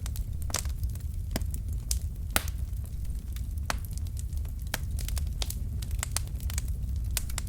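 Wood logs burning in a fireplace: irregular sharp crackles and pops, a few louder snaps among many small ones, over a steady low rumble.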